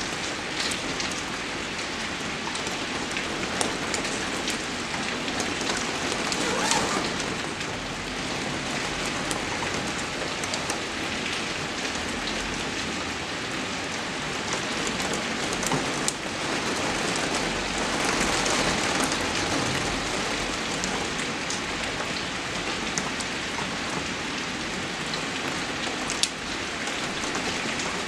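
Steady rain falling, with scattered sharp drop ticks; the hiss swells slightly twice.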